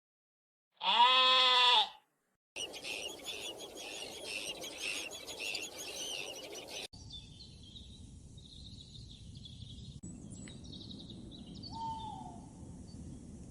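A single bleat lasting about a second, then a dense chorus of many birds chirping. After an abrupt cut, fainter scattered bird calls with one short falling whistle near the end.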